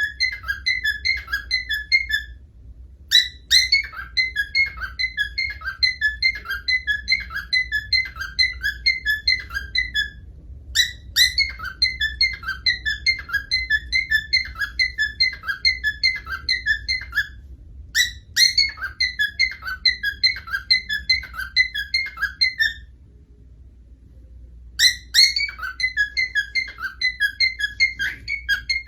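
A bird calling in fast runs of short, high whistled chirps, about four or five a second. The runs last several seconds each, with short pauses between them, and each starts with a sharp rising note.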